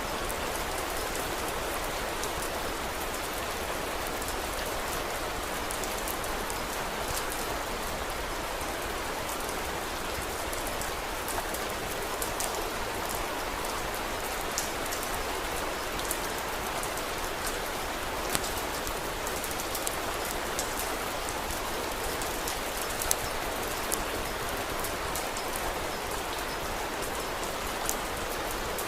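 Steady rain falling, an even hiss, with scattered sharp crackles and pops from a wood fire, a handful standing out louder.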